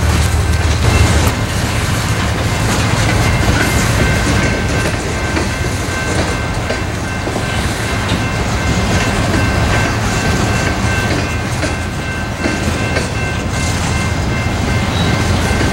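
Freight train cars (covered hoppers and tank cars) rolling past close by, a steady loud rumble and clatter of steel wheels on the rails, with faint steady high ringing tones over it.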